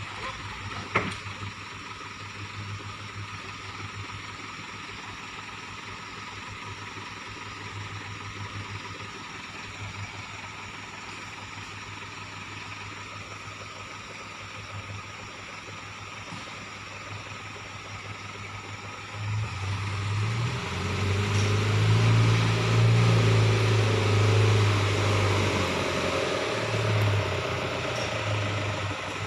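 Motor vehicle engine running steadily at low revs, with one sharp knock about a second in; about two-thirds of the way through, the engine is revved up and runs louder and harder.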